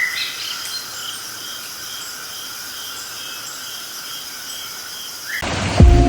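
Crickets chirping steadily at night, an even pulse of about two chirps a second over a constant high insect trill. Music starts suddenly near the end.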